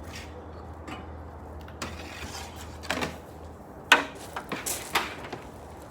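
A handful of knocks and rattles, the loudest a sharp knock about four seconds in, over a low steady hum that stops about three and a half seconds in.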